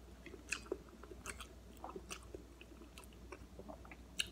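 Faint close-up chewing of soft food, rice and curry eaten by hand, with scattered small wet clicks of mouth and fingers and a sharper click near the end.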